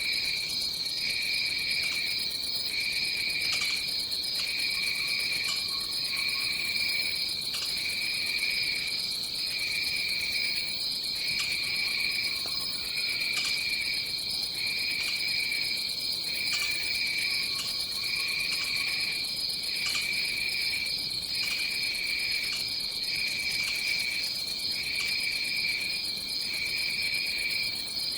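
Dense tropical insect chorus: a steady high trill with a lower pulsing buzz that breaks off about once a second. Three faint low calls come through underneath.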